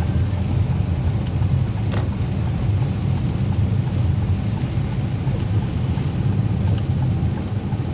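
Car driving on a wet road in heavy rain: a steady low rumble of engine and tyres with the hiss of spray and rain. A faint click about two seconds in.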